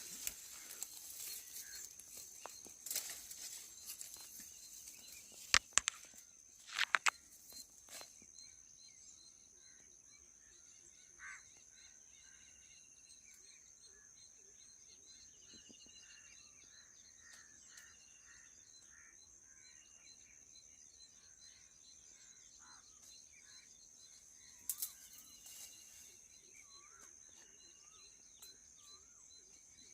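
Faint outdoor ambience: short bird chirps repeating every second or two over a steady high-pitched hum, with a few sharp knocks in the first several seconds and one more near the end.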